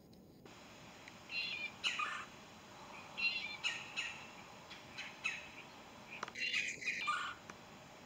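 A songbird calling: clusters of short, high chirping notes, three bursts about two to three seconds apart.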